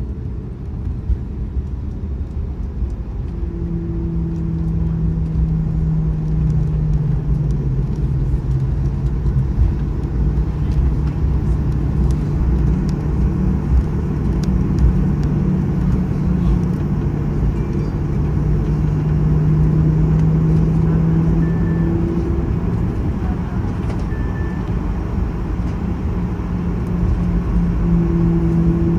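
Cabin noise of a Boeing 737-900ER on the ground after landing: the CFM56-7B engines and airframe make a steady low rumble with a droning hum that swells a little midway and eases off.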